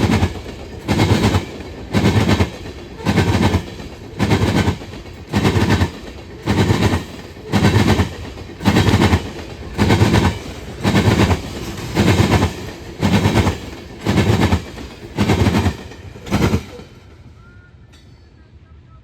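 Freight train wheels banging over the track in a steady rhythm, a loud clank about once a second as the cars roll past slowly. The clanking stops about 17 seconds in as the end of the train clears.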